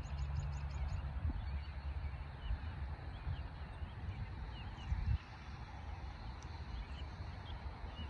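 Birds chirping in the trees: many short, quick calls throughout, with a rapid run of about six thin, high notes at the very start. A low rumble runs underneath.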